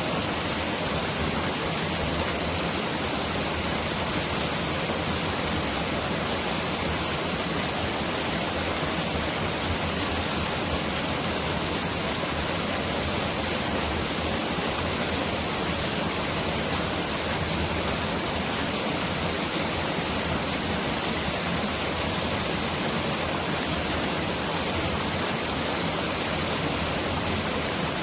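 Mountain stream rushing over rocks, a steady dense roar of water like heavy rain.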